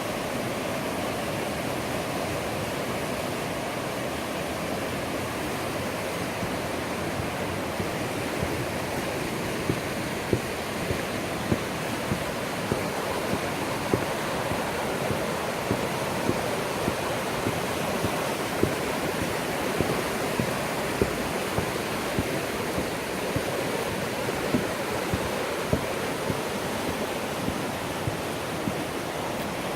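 Rushing river water, a steady roar. From about eight seconds in, light regular thumps come roughly once a second.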